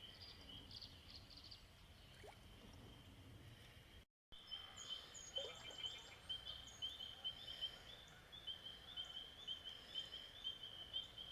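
Chorus of spring peepers: many short, high peeps at the same pitch, overlapping in a rapid, steady run. The chorus is faint at first, cuts out briefly about four seconds in, then comes back more distinct. A few higher bird chirps sound over it.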